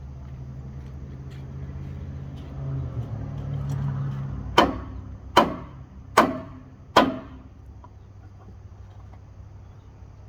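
A low, steady machine hum that swells slightly, then four sharp knocks about a second apart, the loudest sounds here, after which only a quieter hum remains.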